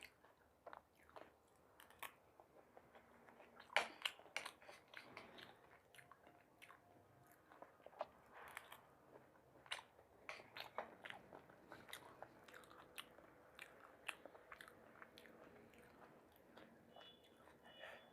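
Person chewing and biting aloo chaat: faint irregular crunches and wet mouth clicks, with a louder bite about four seconds in.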